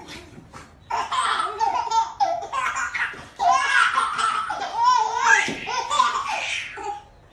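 A baby laughing hard in repeated belly laughs, starting about a second in, with a short break partway through.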